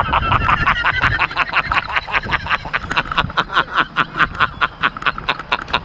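A man laughing hard in a long run of quick breathy pulses, about six or seven a second, fading near the end.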